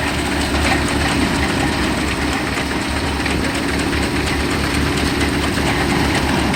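Tractor-driven wheat thresher running steadily: a low engine throb under a continuous dense mechanical clatter.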